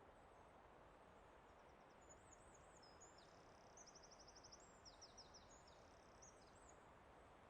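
A small songbird singing a high, twittering song of quick trills and rapid repeated notes, starting about a second and a half in and stopping near the end, over a faint steady hiss of forest ambience.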